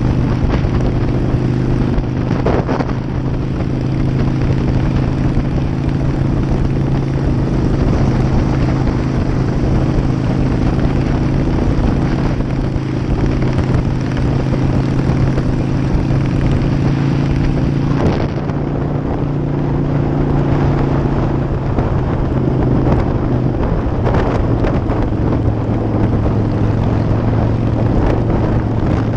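Harley-Davidson air-cooled V-twin motorcycle engine running at a steady cruising speed, its pitch holding nearly constant, with wind rushing over the microphone.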